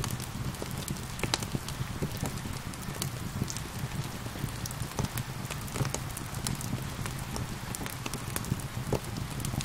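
Wood fire crackling with frequent sharp pops over a steady hiss of rain and a low rumble of the flames.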